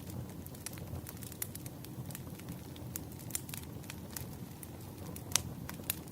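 Wood fire burning, with a steady low rumble of flame and irregular crackles and pops of burning wood, one sharp snap about five seconds in.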